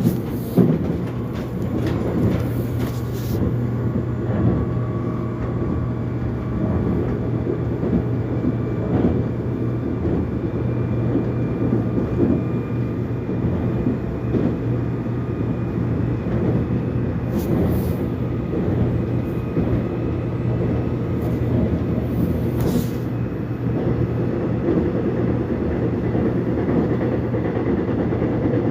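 Korean subway train running between stations, heard from inside the carriage: a steady rumble of wheels on rail with a low hum, a faint high whine and a few short clicks.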